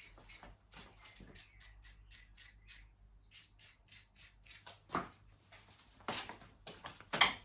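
Quick scraping strokes, about four a second, as a fouled spark plug from a small lawn mower engine is scrubbed clean, followed by a few louder, longer rushing sounds near the end.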